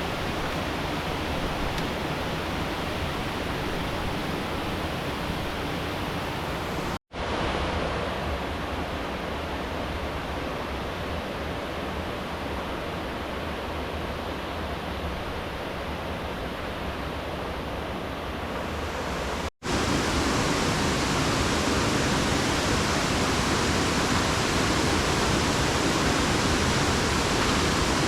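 Rushing river water, a steady hiss with no distinct knocks or tones. It drops out for an instant twice, about seven seconds in and near twenty seconds, and is louder and brighter after the second break.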